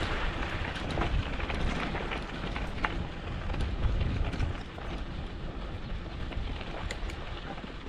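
Mountain bike rolling over a dirt and gravel track: a steady crunch and rattle of tyres on loose ground, with scattered small clicks, under low wind rumble on the microphone.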